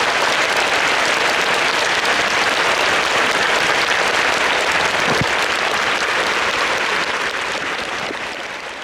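Concert audience applauding steadily after a song ends, fading away near the end.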